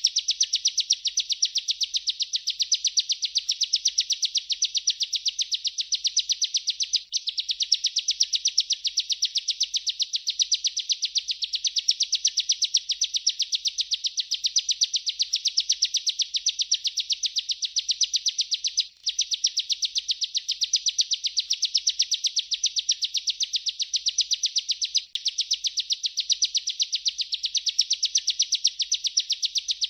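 Ciblek (bar-winged prinia) singing a long, unbroken rolling trill of very rapid high notes. The trill breaks off for an instant three times.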